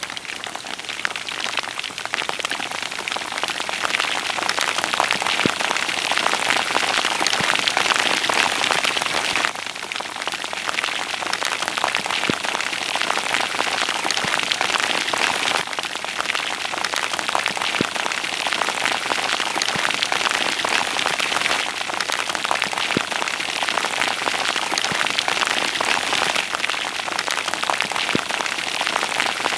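Rain falling on open water: a dense, steady hiss of countless small drops, growing heavier over the first few seconds.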